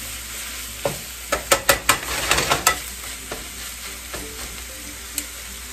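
Shaved steak, bell peppers and onions sizzling in a skillet while being stirred with tongs, the tongs clacking against the pan several times, mostly in a cluster about one to three seconds in.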